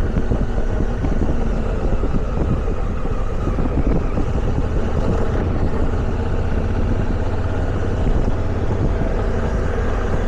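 Motorcycle riding on a gravel road: the engine running steadily under heavy wind rush on the microphone.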